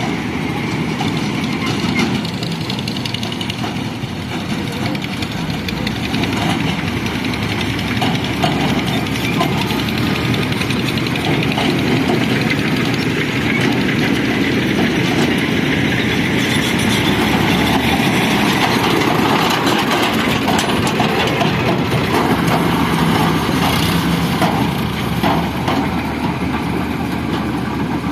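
Heavy diesel engine of an excavator running steadily at working speed, with scattered small knocks and clatter.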